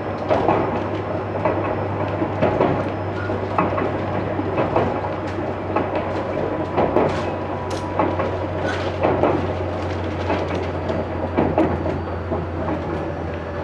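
Aizu Railway 6050 series electric train running, heard from inside the passenger car: a steady low rumble under irregular clacks and rattles as the wheels run over the track.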